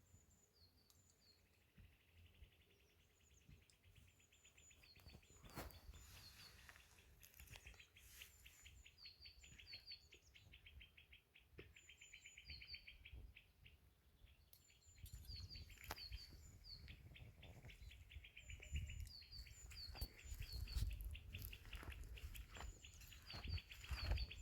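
Wild birds singing faintly: repeated short high chirps over a fast, buzzy trill. A low rumble comes in about halfway through.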